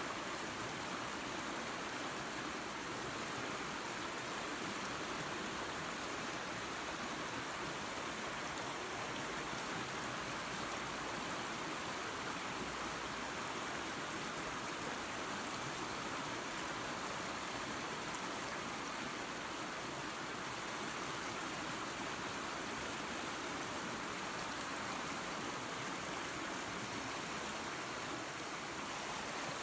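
Creek water and a small waterfall running, a steady even rush with no breaks.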